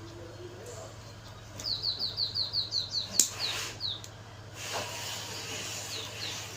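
A small bird chirping: a quick run of short, high, downward-sliding notes, about seven a second, then a few single chirps. There is one sharp click about three seconds in, over a steady low hum.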